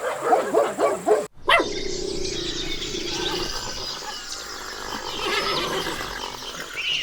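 A horse whinnying and nickering with a fluttering call, cut off abruptly about a second in; after the cut, birds chirp over a steady outdoor background.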